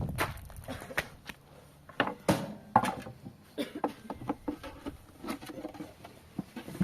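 A string of irregular knocks and clicks, a few sharper and louder than the rest.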